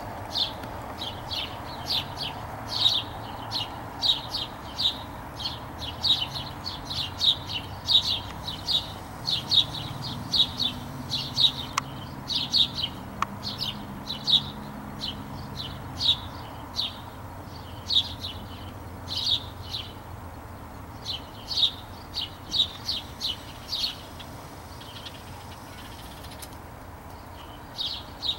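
A bird chirping over and over, short high chirps two or three a second, thinning out near the end.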